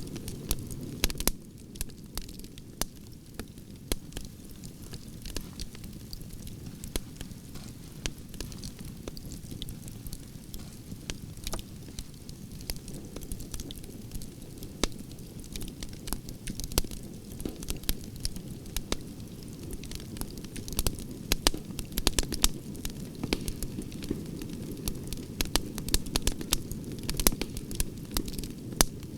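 Wood fire of burning branches crackling: many sharp pops and snaps over a steady low rush of flames, with the pops coming thicker in the second half.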